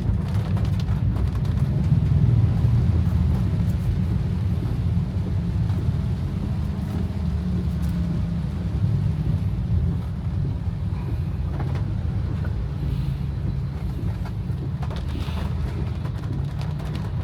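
Steady low rumble of a car in heavy rain, with faint scattered taps of raindrops over it.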